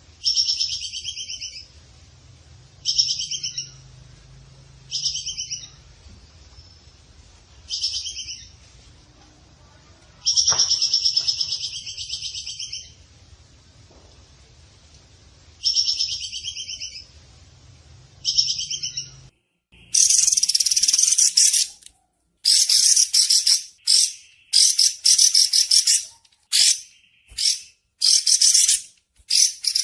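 Bird calls from a song-lure recording: a series of separate calls lasting one to two seconds each, over a faint low hum. About two-thirds of the way through, a cut brings in a different, higher and faster run of chirping bursts.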